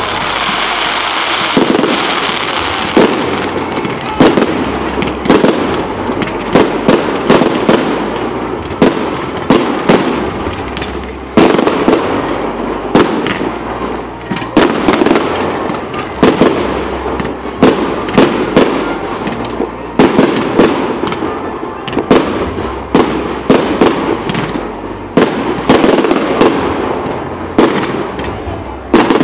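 Fireworks display: a continuous barrage of aerial shells bursting, many sharp bangs coming several a second at times over a steady dense din between them.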